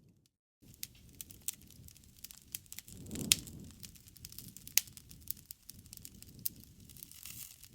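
Campfire crackling, with irregular sharp pops of burning wood; the loudest pop comes about three seconds in with a brief low rumble under it, and another strong pop follows a second and a half later. The sound drops out for about half a second at the very start.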